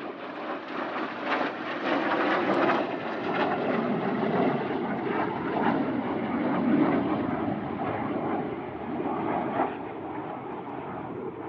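Airplane flying past: loud engine noise that builds over the first couple of seconds, stays strong through the middle, then eases off near the end.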